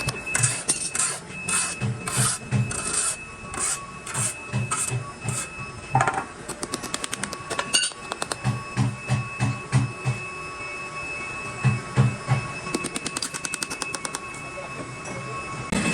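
Workshop machinery clattering, with runs of irregular knocks several a second and a thin steady whine underneath.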